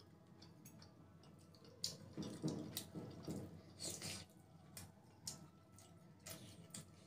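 Close-miked wet chewing and mouth sounds of soft idli soaked in sambar being eaten, with scattered sharp smacks and clicks, busiest about two to four seconds in.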